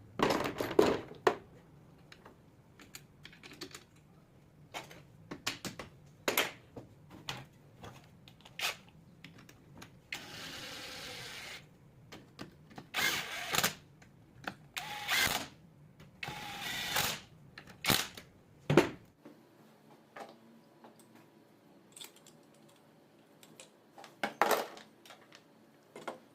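Tools and metal parts being handled: irregular clicks, knocks and scrapes, with a brief steady whirr or hiss about ten seconds in.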